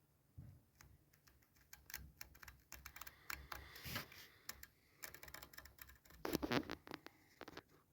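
A stiff painted apron being cut: a run of small irregular clicks and scrapes, thickest and loudest about six and a half seconds in.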